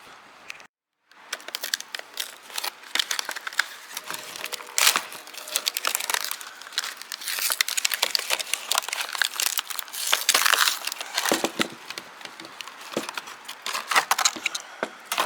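Packaging of a new hand rivet tool being handled and opened: crinkling and tearing with many small clicks and knocks, after a brief gap about a second in.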